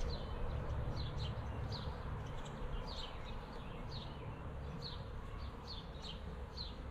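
A small bird calling over and over with short falling chirps, about one a second, over a low steady hum.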